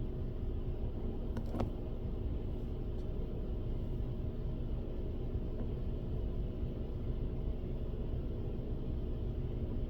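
Steady low outdoor rumble with a faint steady hum, and a couple of light clicks about a second and a half in.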